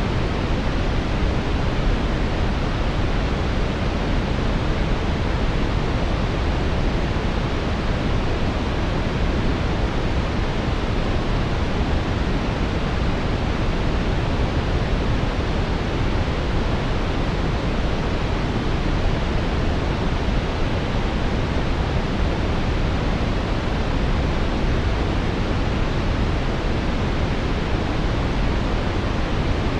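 Brown noise: a steady, even hiss-like rumble, deep and strongest in the low end, falling away toward the highs, with no changes.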